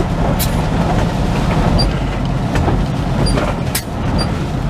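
Heavy truck's diesel engine running steadily, heard from inside the cab, with a few sharp clicks and knocks over the rumble.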